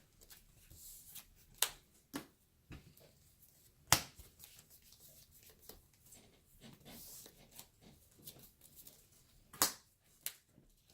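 Trading cards being handled on a table: soft rustling with a few scattered sharp clicks as cards are set or slapped down, the sharpest about four seconds in and near the end.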